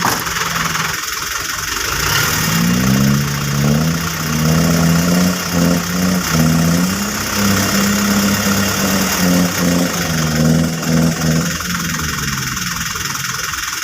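A vehicle engine revving, its pitch rising and falling repeatedly from about two and a half seconds in until near the end, over a steady hiss.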